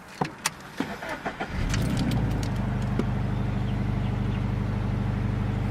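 A few clicks, then the Scion FR-S's 2.0-litre flat-four engine cranks and catches about a second and a half in, flares briefly and settles into a steady idle.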